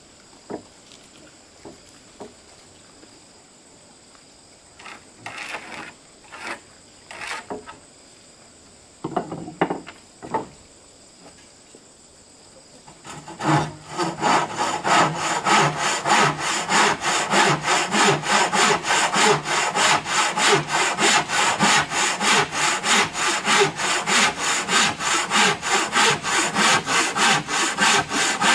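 Hand saw cutting wood in quick, even strokes, about three a second, starting about halfway through after a few scattered knocks and scrapes.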